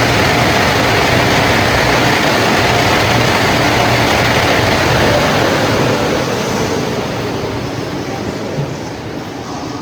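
Automatic car wash dryer blowers running loud and steady, then winding down over the last few seconds with a slowly falling tone: the drying stage ending.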